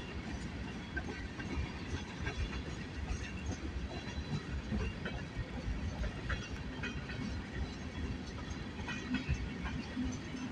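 Freight train cars rolling past at steady speed: a continuous rumble of steel wheels on rail, with scattered light clicks.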